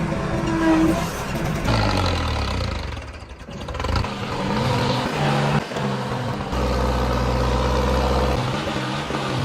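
Fiat 640 tractor's diesel engine running, its revs rising and falling, with a brief drop about three seconds in.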